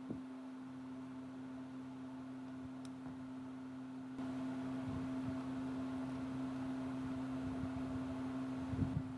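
Steady machine hum, one tone with overtones, that grows louder and fuller about four seconds in, with a few soft low knocks.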